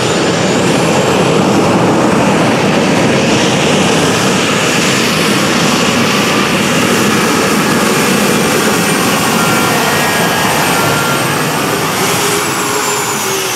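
A competition pulling vehicle's engine running hard at full power, loud and steady, with a high whine that falls in pitch near the end.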